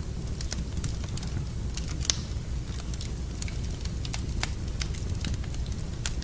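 Wood fire crackling in a fireplace: irregular sharp pops and snaps over a steady low rumble of flames, with one louder pop about two seconds in.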